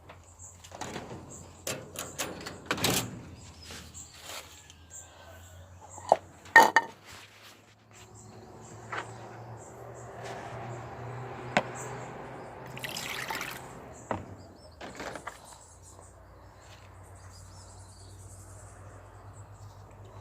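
Clicks and knocks of things being handled, then a pouring sound that runs for about five seconds in the middle, with more scattered clicks after it.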